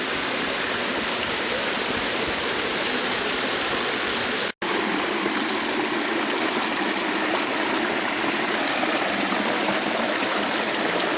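Steady rushing of water in a mountain valley stream with small falls. About four and a half seconds in, the sound drops out for a split second and comes straight back.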